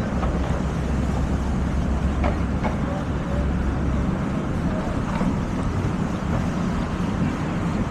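Street traffic noise, a steady mix of vehicles, with a deep low hum from a nearby engine that drops away about halfway through.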